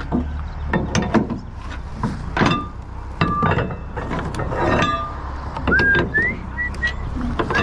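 Rebar and metal being handled: repeated sharp clanks and knocks, several ringing briefly, over a steady low engine hum. Near the end, a few whistled notes that step up in pitch.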